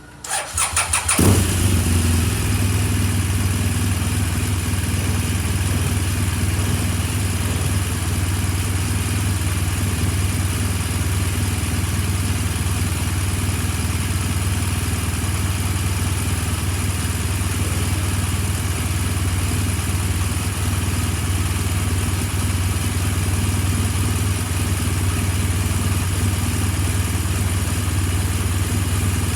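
BMW R1200R's boxer-twin engine cranked on the electric starter for about a second, catching and settling into a steady idle.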